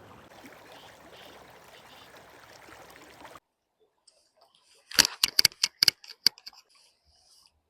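A faint steady rushing noise that stops abruptly about three and a half seconds in, then a quick run of about eight sharp clicks in just over a second, about five seconds in.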